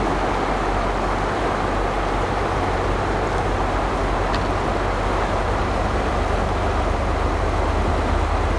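Diesel train running past: a steady low locomotive rumble under a constant rolling noise, the rumble growing stronger near the end.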